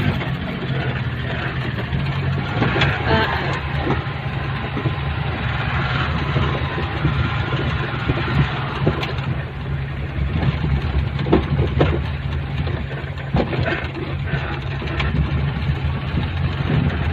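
A vehicle's engine running steadily with road noise, heard from on board, with occasional light knocks and rattles.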